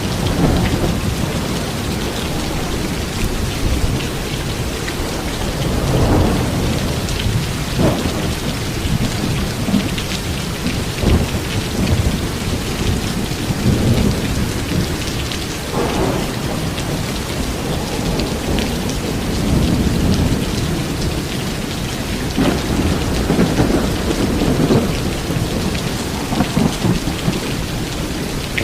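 Heavy rain pouring steadily in a storm, with strong wind. Low rumbling swells rise and fall every few seconds, from gusts or distant thunder.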